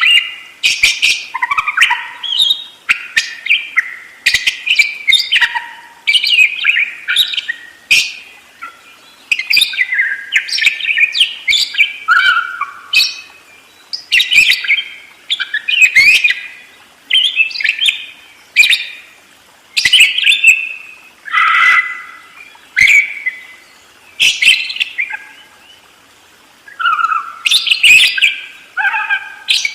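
Budgerigar warbling chatter: a rapid, continuous run of chirps, squeaky warbles and sharp clicks in quick bursts, with a short lull near the end.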